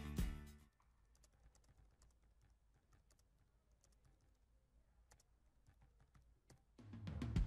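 Faint computer keyboard typing: irregular single keystrokes. Music fades out in the first second, and music with drums comes back in near the end.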